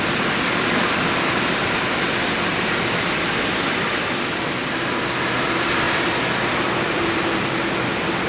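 Steady roar of airflow and engine noise inside the cabin of a Boeing 787-8 airliner, with a faint low hum underneath.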